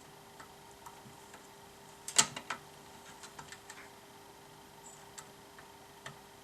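Scattered light clicks and taps, with a louder quick cluster of clicks about two seconds in, over a faint steady hum.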